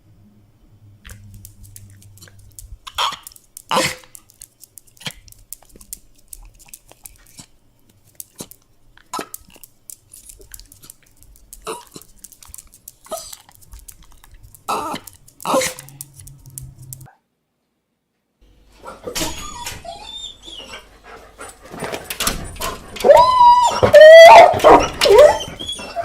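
A dog whining and whimpering in high, wavering cries that swell to their loudest in the last few seconds. Before that there is a long quiet stretch of scattered small clicks and a few short sharp sounds, broken by a brief silence.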